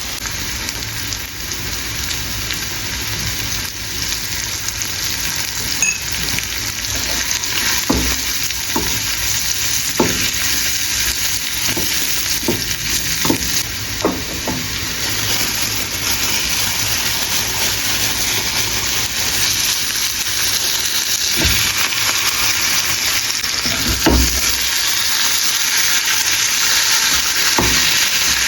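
Food sizzling steadily in a hot frying pan while being stirred, with short knocks of the utensil against the pan now and then; the sizzle grows louder in the last third.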